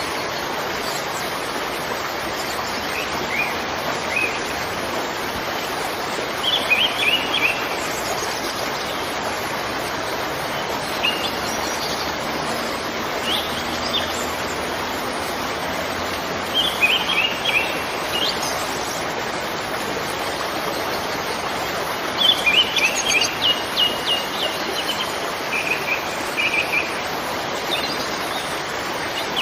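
Waterfall rushing steadily, with small birds chirping in short bursts every few seconds over it.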